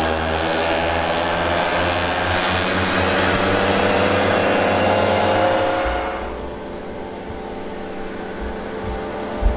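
Several vintage two-stroke mopeds riding past in a group, their small engines buzzing together; the sound drops away sharply about six seconds in and stays fainter after.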